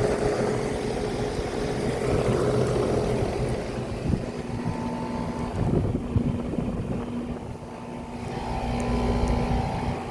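Several air-conditioning condensing units running in cool mode, a steady hum of compressors and condenser fans. The pitch of the hum changes about four seconds in.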